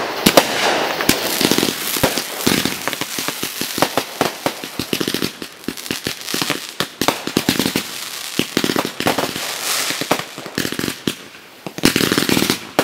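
Fireworks going off in a rapid, irregular string of sharp cracks and pops, thinning briefly about eleven seconds in and picking up again near the end.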